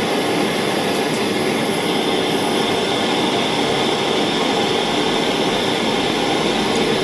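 Gas soldering torch flame burning with a steady, even hiss, heating silver solder on a metal eyeglass frame.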